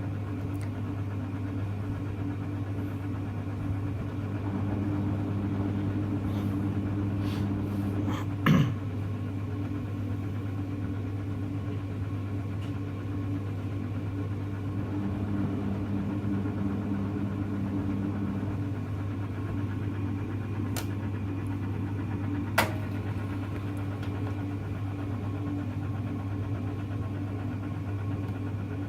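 Hoover Electra front-loading washing machine running mid-cycle with a steady low motor hum. Two short sharp clicks or knocks sound, the first about eight seconds in and the second a little past twenty seconds in.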